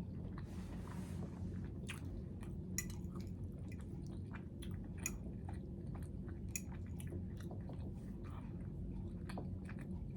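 A person chewing a mouthful of butter chicken and rice close to the microphone, with many small, irregular mouth clicks and smacks over a steady low hum.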